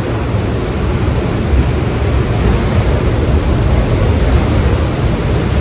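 Ocean surf on a beach, a steady rushing noise, with wind rumbling on the microphone.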